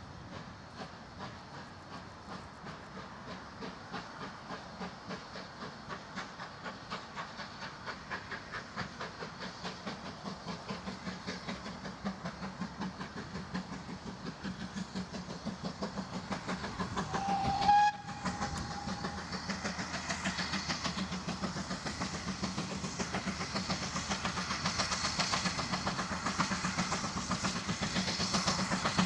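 Steam locomotive working a train, its exhaust beating in a steady rhythm that grows louder and quicker. A short whistle blast sounds about two-thirds of the way through.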